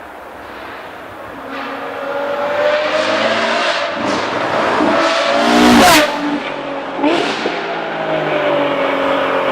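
Ferrari F12 Berlinetta's V12 engine through a Novitec Rosso race exhaust, accelerating hard. The note climbs in pitch and loudness, is loudest about six seconds in, then drops sharply in pitch and surges again briefly.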